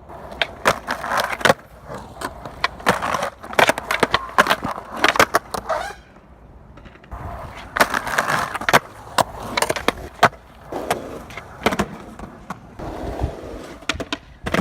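Skateboard rolling over the skatepark, with many sharp clacks and impacts from the board and trucks striking the ground. The rolling breaks off for about a second around six seconds in, then starts again.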